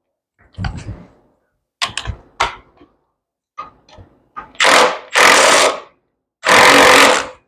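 Impact wrench hammering in three short bursts, tightening the bolt that holds the clutch on the engine's crankshaft. A few clicks and knocks come first as the tool and socket are fitted.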